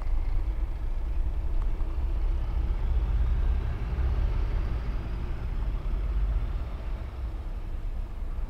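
Train passing through the station: a steady low rumble, with a faint whine that rises and falls away around the middle.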